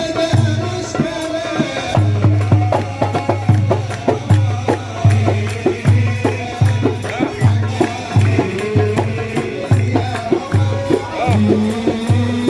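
Port Said simsimiyya folk music played live: plucked simsimiyya lyre lines over a steady pulsing bass beat, with tambourine-like shaken percussion.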